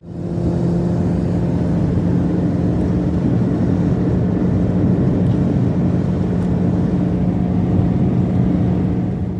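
An engine running steadily at an even pitch with a rough low rumble, cutting in abruptly and cutting off abruptly near the end.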